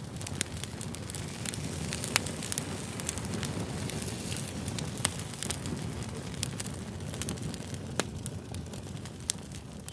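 Fire crackling: many sharp pops and snaps, a few louder than the rest, over a steady low rumble of flames.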